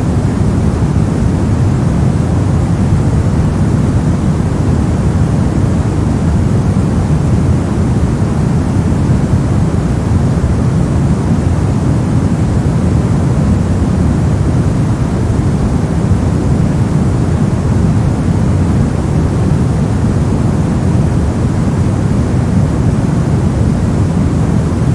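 Steady, unchanging synthetic noise of the white-noise kind, deep rather than hissy: most of its weight sits low, giving a dull, even rushing sound with only a faint hiss above.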